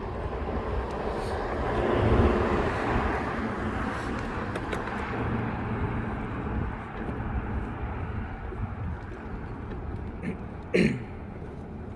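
A passing vehicle: its noise swells about two seconds in and then slowly fades. Near the end comes one short cry that falls in pitch.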